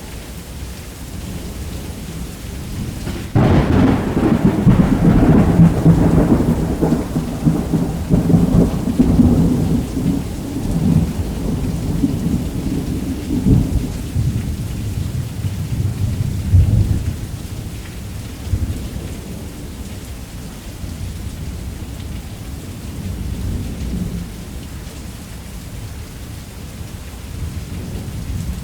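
Thunderstorm: steady rain, then a sharp thunderclap about three seconds in that breaks into a long, deep rolling rumble, fading after about fifteen seconds back to the rain.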